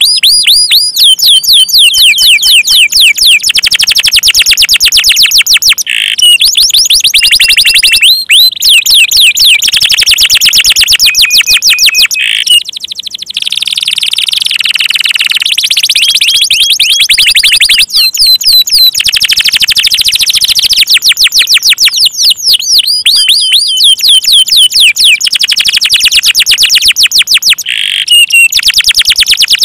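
Domestic canary in full song: loud, fast rolling trills of rapidly repeated high, falling notes, broken by a few short pauses between phrases.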